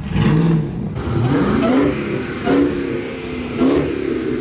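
A car engine revving as it moves, its pitch rising and falling, with short louder blips about two and a half and three and a half seconds in.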